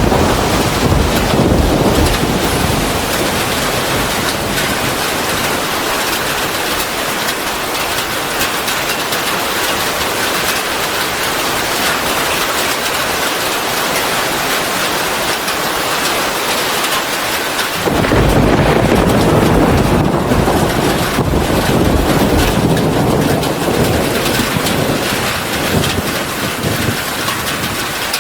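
Steady heavy rainfall hissing, with deep rolling rumbles of thunder in the first couple of seconds and again for several seconds starting about two-thirds of the way in.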